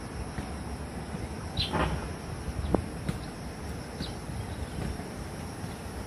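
Wild birds giving a few short, high chirps, about two seconds in and again about four seconds in, over a steady low rumble of wind or handling on the microphone. A single sharp click near the middle.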